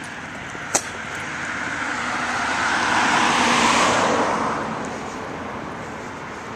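A car passing by on the street: tyre and engine noise swells to its loudest about halfway through, then fades away. A single sharp click sounds near the start.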